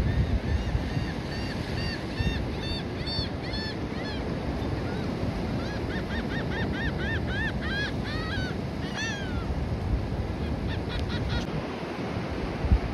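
Birds calling in two quick runs of short, arched notes over a steady rush of wind and surf.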